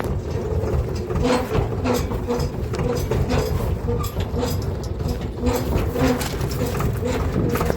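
Swaraj tractor's diesel engine running under way, with a steady pulsing beat, and many clicks and knocks from the machine rattling over a rocky road.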